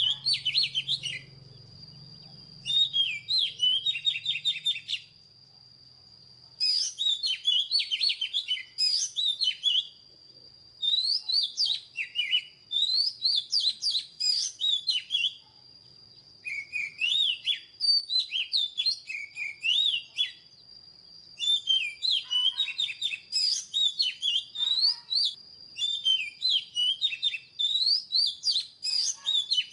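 Oriental magpie-robin singing: bursts of quick, varied whistled phrases a few seconds long with short pauses between them, over a faint steady high whine.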